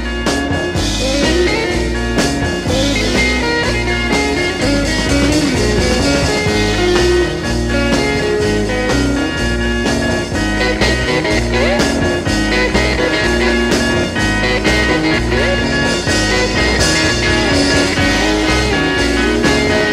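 Instrumental rock music with electric guitar over a steady bass and drum beat.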